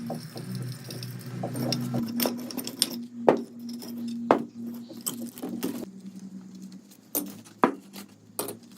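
Small metal parts clicking and clinking as they are handled, with several sharp irregular clicks, loudest about three and four seconds in and again near the end. Under them runs a steady low hum.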